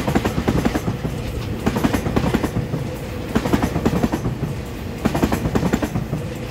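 Taiwan Railway EMU3000 electric multiple unit running past at close range, its wheels clattering over the rail joints in repeating groups of clacks over a steady rumble.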